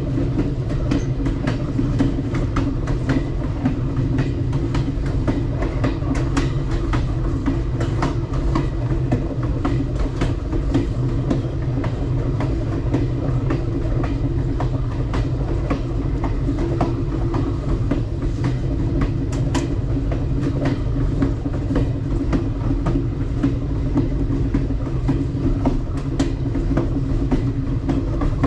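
Alaska Railroad Coastal Classic passenger train running along the track: a steady rumble of wheels on rail, with scattered, irregular clicks and knocks from the wheels and car.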